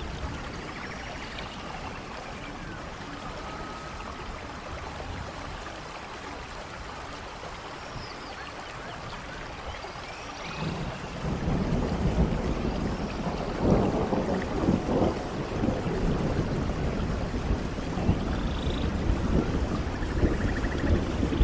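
Steady rain in a rainforest with a few faint high chirps; about halfway through, thunder rolls in as a low rumble with irregular louder peaks, running on over the rain to the end.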